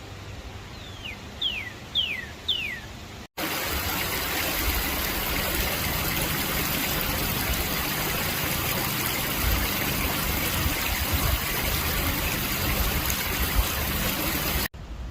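A songbird gives four clear whistled notes, each sliding downward, about half a second apart. Then a steady rushing sound of running water.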